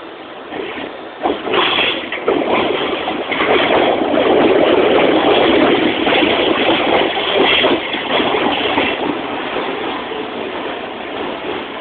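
London Underground District line train moving through the platform, a steady rush of wheel and running noise. It builds after a second or so, is loudest in the middle and slowly eases.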